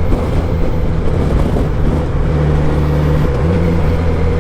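Kawasaki Ninja 1000SX's inline-four engine running at a steady cruise, mixed with wind and road noise, its pitch rising a little about three seconds in.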